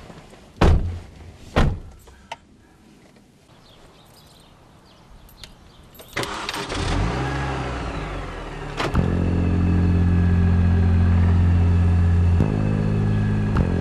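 Two thumps about a second apart, then a car engine starting about six seconds in and running loud and steady, with a sudden change in its note near the end.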